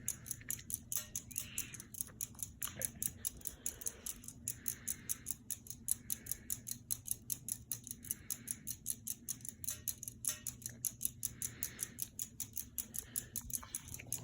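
Seagull Lighting Main Street ceiling fan running on low speed in reverse: a steady low motor hum with a fast, even ticking of about six a second.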